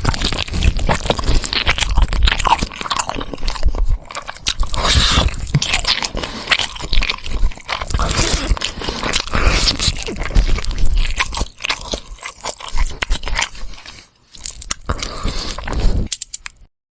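Loud chewing and crunching on bones, bite after bite with crackly crunches, pausing briefly near the end before cutting off suddenly.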